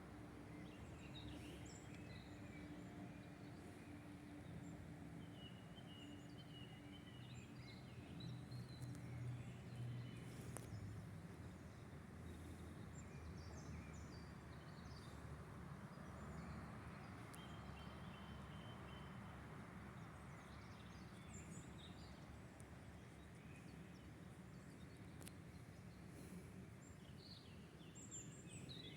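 Faint outdoor evening ambience: a steady low rumble, with scattered short bird chirps and calls on top.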